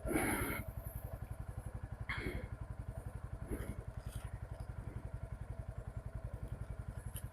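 Motorcycle engine idling with a steady, even low putter, with brief clattering noises at the start and about two seconds in.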